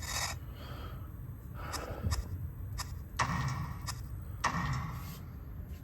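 A few short rustles and light clicks of hands handling things on a workbench.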